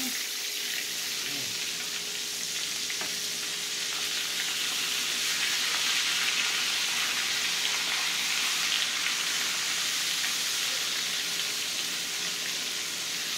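Flour-coated pork chops sizzling steadily in hot oil in a skillet as they are turned with a fork.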